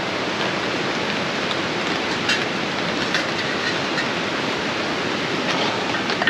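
Steady, even rush of a fast-flowing river, with a few faint ticks now and then.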